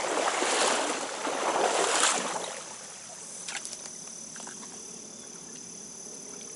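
Stream water sloshing loudly for the first two and a half seconds, surging about once a second, then settling to a quieter steady flow with a few small clicks and a thin steady high tone.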